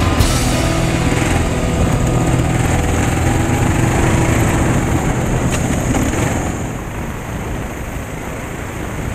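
Kawasaki KLR650's single-cylinder four-stroke engine running under way, with wind and road noise; the sound eases off and gets quieter for the last couple of seconds.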